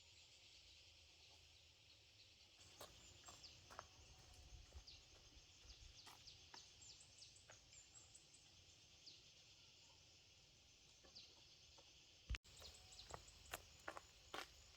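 Near-silent outdoor ambience: a faint steady insect hiss, with scattered small clicks and chirps and a brief dropout about twelve seconds in.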